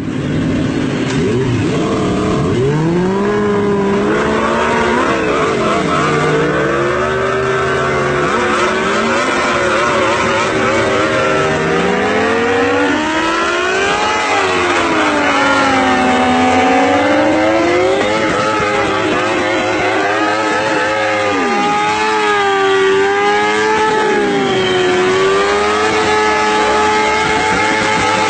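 Motorcycle engines revving hard, their pitch rising and falling over and over as they accelerate, shift and ease off, with more than one engine often heard at once.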